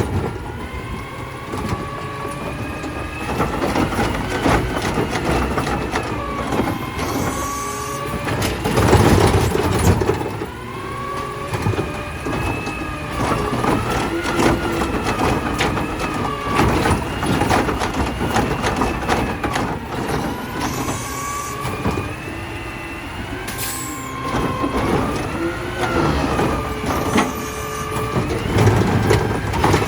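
A side-loader garbage truck working a collection stop: its engine and hydraulic pump whine rise and fall over and over as the arm cycles, with heavier surges about 9 s in and near the end, and a few short hisses of air.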